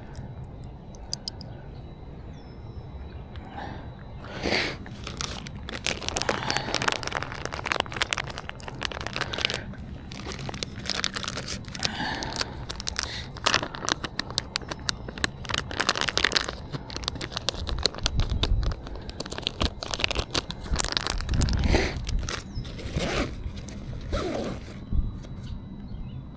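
Irregular rustling, crinkling and scraping close to the microphone, starting about four seconds in and going on until shortly before the end.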